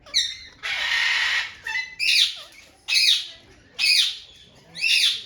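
Parrot squawking: one harsh, drawn-out screech about a second in, then loud short squawks about once a second, each falling in pitch.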